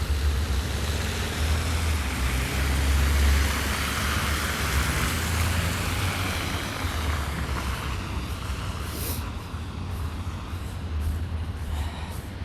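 Downtown street traffic: a vehicle passing on a snowy road, its noise swelling and then fading, over a steady low rumble of wind on the microphone. A few short clicks near the end.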